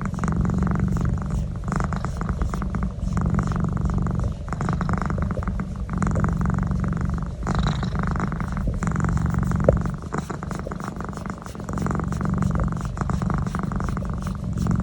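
Domestic cat purring loudly and steadily while its neck is massaged, the purr coming in stretches with short dips every second or two.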